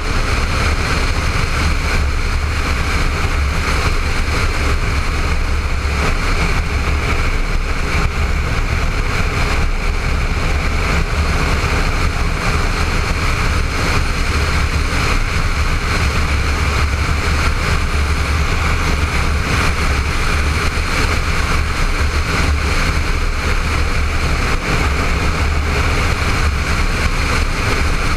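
Honda ST1300 motorcycle's V4 engine running steadily at road speed, with constant wind rush over a helmet-mounted camera.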